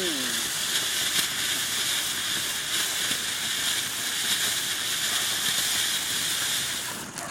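Ground fountain firework spraying sparks with a steady, loud hiss, which cuts off shortly before the end as the firework burns out.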